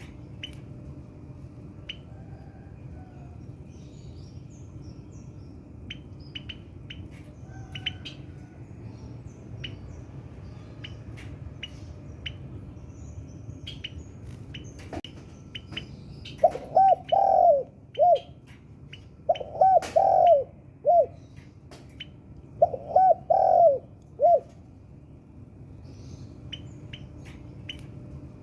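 Spotted dove cooing: three phrases of several low notes each in the second half, the loudest sound. Faint short high chirps of small birds come and go throughout.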